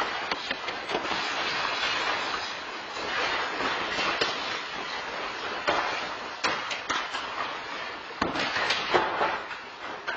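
A building shaking in an earthquake: a continuous rumble with objects rattling and scattered knocks and clatters, a few sharper ones after the middle, easing off near the end.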